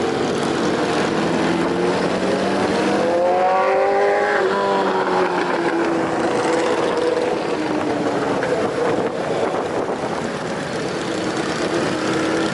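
Several motorcycle engines running. One revs up, its pitch climbing for a couple of seconds, then drops about four and a half seconds in, while others hold a steady note.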